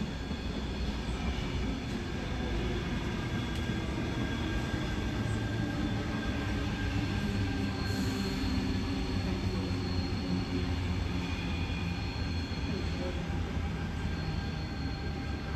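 Sydney Trains double-deck electric suburban train passing: a steady rumble of wheels on the track, with high, steady squealing tones over it.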